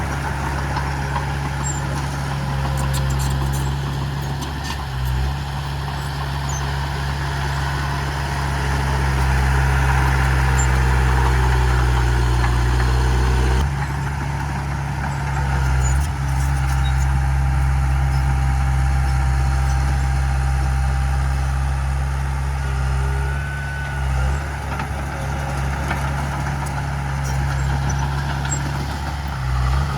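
Heavy diesel engine of earthmoving machinery running steadily under varying load. Its low drone shifts pitch and level several times, with a few faint metallic clanks.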